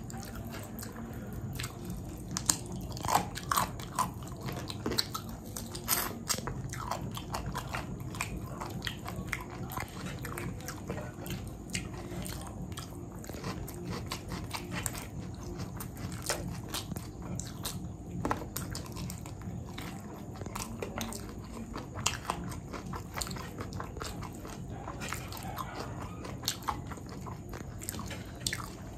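Close-miked chewing and crunching of food, with irregular sharp crunches and mouth clicks over a steady low hum.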